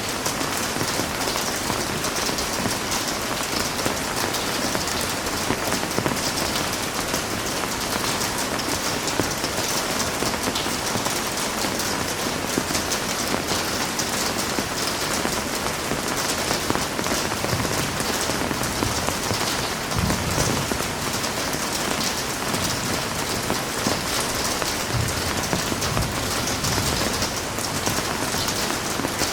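Heavy rain falling steadily, a dense even hiss of drops on surfaces, with a faint low rumble about two-thirds of the way through and again near the end.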